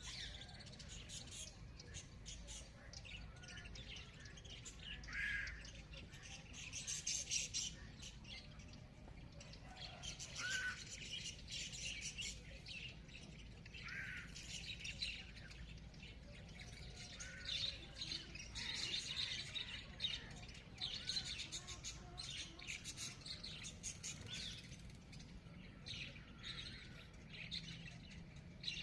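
Many wild birds chirping and calling at once, a dense run of short high chirps throughout with a few lower, louder calls now and then, over a steady low rumble.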